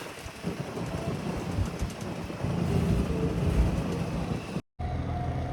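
Boat engine running under a rumbling, buffeting noise of wind and water. It cuts out briefly near the end and comes back as a steady engine hum.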